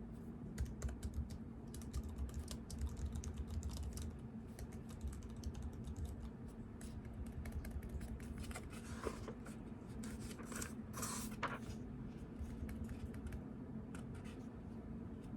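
Typing on a computer keyboard: a run of quick, irregular keystrokes, with a couple of longer scratchy rustles about nine and eleven seconds in, over a steady low hum.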